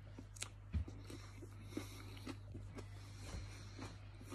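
A person chewing a Carolina Reaper chili pepper: faint, soft, irregular clicks and smacks of the mouth, about twice a second.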